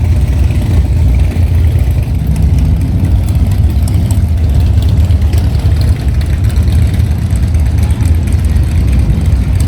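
Motorcycle engine running with a steady, deep, low rumble.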